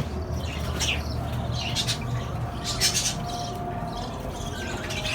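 Small caged parrots chirping and squawking in a breeding room, a few short high calls about a second apart, over a low steady hum.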